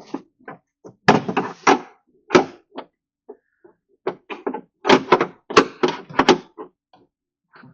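Irregular knocks and clunks of a tool against the Chevy truck's body sheet metal from the inside, working out a dent: a cluster about a second in, a single knock a little later, and a longer run of knocks in the second half.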